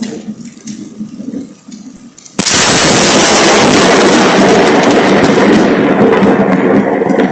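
A very close lightning strike: a sudden loud crack about two and a half seconds in, running on as a loud thunder rumble that eases off near the end.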